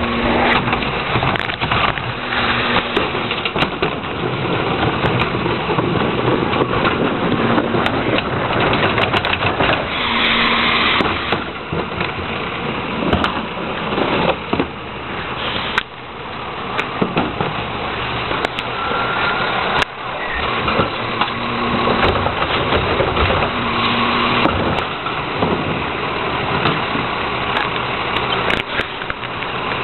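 Heil 5000 rear-loader garbage truck running, a loud continuous engine and mechanical noise, with short low tones coming and going several times.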